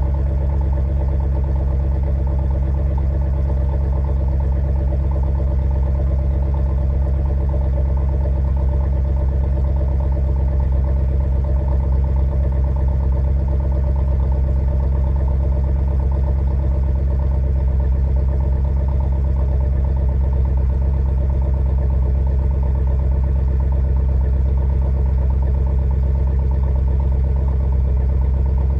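Volvo S80 4.4's V8 engine idling steadily through its stock exhaust, warming up after a cold start.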